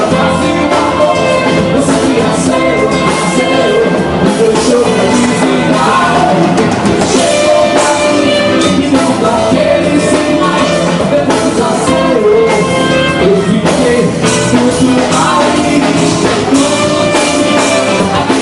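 A live band playing loud, up-tempo music with a drum kit, with singing over it.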